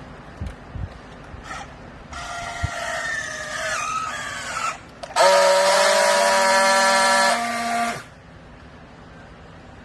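A pitched mechanical whine with several overtones, starting about two seconds in and sagging slightly in pitch, then jumping louder at about five seconds and holding steady for about three seconds before cutting off. A few light knocks come before it.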